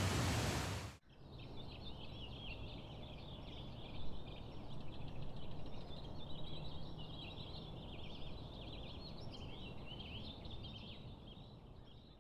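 A loud, even rushing noise cuts off abruptly about a second in. After it, small songbirds chirp and trill continuously over a low background hiss, fading out near the end.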